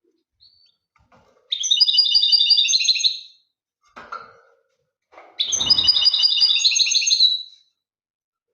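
European goldfinch singing two phrases of about two seconds each, fast runs of repeated high notes, with a few short faint calls between them.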